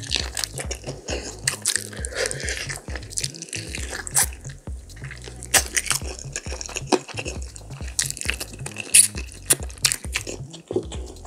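Close-up eating sounds of barbecue pork ribs eaten by hand: biting meat off the bone and chewing, with many short mouth clicks and smacks. Background music with a steady bass runs underneath.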